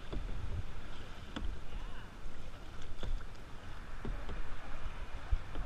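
Kayak paddling: paddle strokes in the water with a light knock roughly every second and a half, over a steady low rumble.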